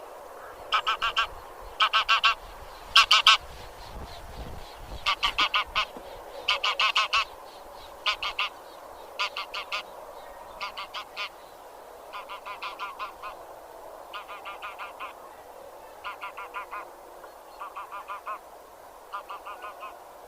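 Geese of the genus Anser honking in quick runs of several calls, a new run about every second or so. The calls are loudest about three seconds in and grow softer toward the end, over a steady background murmur.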